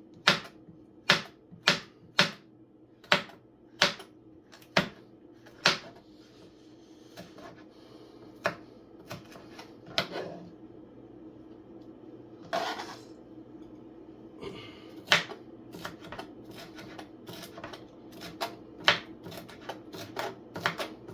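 Knife chopping sweet pepper on a cutting board: sharp chops about two a second for the first few seconds, then scattered chops. A steady low hum runs underneath.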